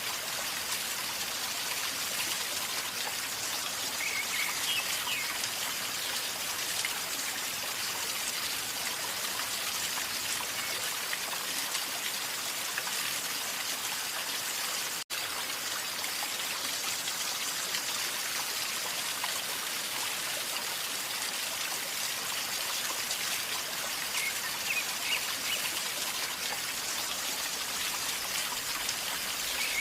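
River water flowing and gurgling in a steady, even rush, with a brief dropout about halfway through.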